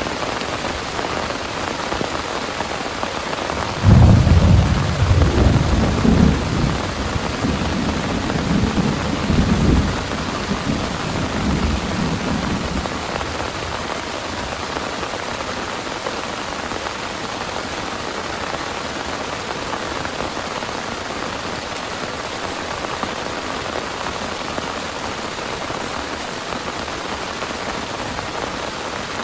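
Heavy rain falling steadily. About four seconds in, a sudden thunderclap breaks and rumbles on for around nine seconds before dying away under the rain.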